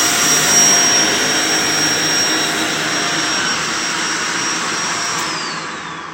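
Shark Lift-Away upright vacuum cleaner running at full speed with a steady high motor whine, then switched off about five seconds in, its whine falling in pitch as the motor winds down.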